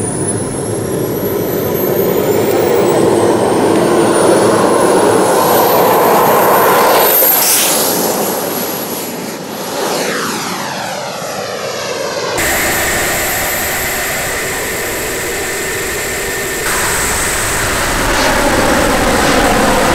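The twin KingTech K-235 model turbine jet engines of a large radio-controlled Su-30 are heard in flight: a steady rushing noise with a high whine that climbs in pitch. The jet sweeps past about seven seconds in, its pitch falling as it goes by.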